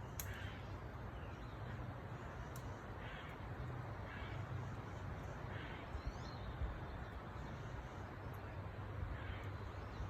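A bird calling faintly and repeatedly, short harsh calls about every one to two seconds, over a steady low background hum.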